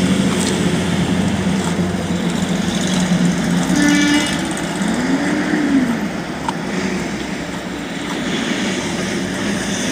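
Steady vehicle hum heard from inside a car, with a steady low drone, a short rising-and-falling tone about five seconds in.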